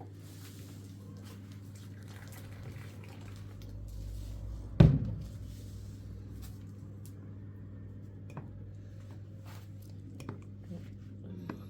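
A single heavy thump about five seconds in, with a low rumble swelling just before it, over a steady low hum; a few light clicks and knocks follow.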